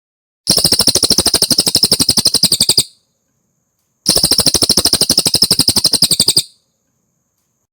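Cililin songbird singing two loud, rapid, buzzy trills, each about two and a half seconds long, with a short pause between them.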